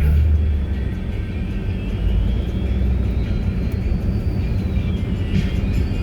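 Steady low rumble of a small car driving on snowy roads, heard from inside the cabin, with a faint high tone gliding slowly up and then down.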